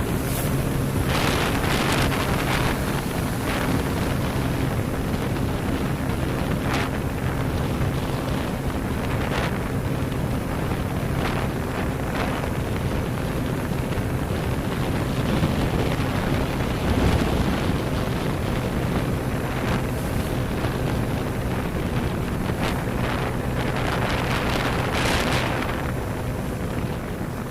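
Motorcycle engine running at a steady cruising speed, with wind rushing over the microphone. A few brief louder hissy swells come and go, around the start and near the end.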